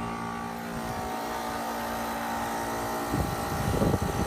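Outdoor heat pump unit running: its compressor and fan motor make a steady hum of many even tones. A low, irregular rumble comes in about three seconds in.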